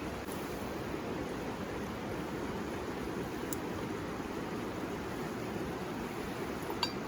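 Steady rushing of a river flowing nearby, with a couple of small clicks, one about halfway through and one near the end.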